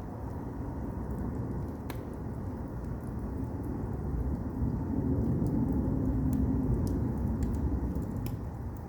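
Firewood burning in an agungi, a traditional Korean wood-fired furnace: a low rumbling roar of the fire that swells midway, with scattered crackles and pops of the burning wood, one sharper pop about two seconds in.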